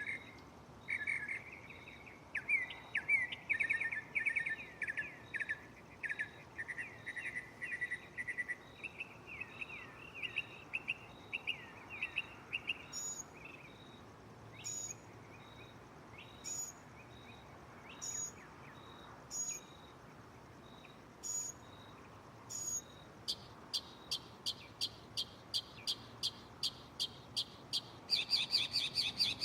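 Northern mockingbird singing and switching between phrases. First come fast trills of repeated notes, then about seven sharp single notes roughly a second and a half apart, then a rapid even run of notes in the last few seconds.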